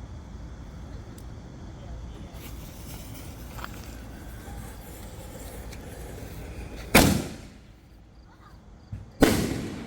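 Two loud firework bangs about two seconds apart, each a sharp crack that dies away over a fraction of a second.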